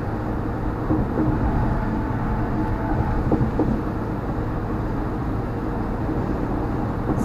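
Steady low rumble of tyre and engine noise inside a moving car's cabin at highway speed.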